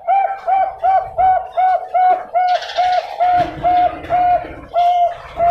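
Zebra dove (Bangkok-type perkutut) cooing: a fast run of short, evenly spaced notes on one pitch, about three a second, spacing out a little near the end.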